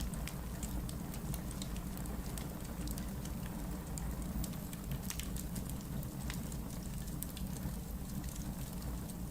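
Wood logs burning in a fireplace, crackling with frequent irregular sharp pops and snaps over a steady low rumble of the flames.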